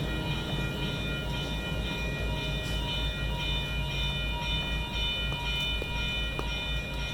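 A passing train running steadily, with a low pulsing rumble under several steady high tones.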